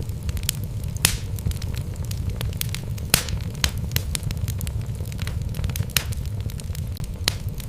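Wood logs burning in a fireplace: a steady low rumble of the flames with frequent sharp crackles and pops from the burning wood, irregularly spaced, a few louder snaps standing out.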